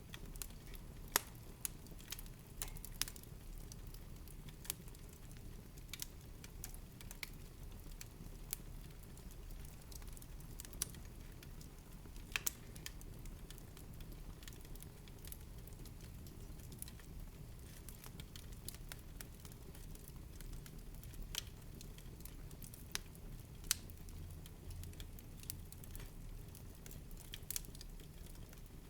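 Wood fire burning in a fireplace, crackling with irregular sharp pops and snaps, some louder than others, over a soft low rumble.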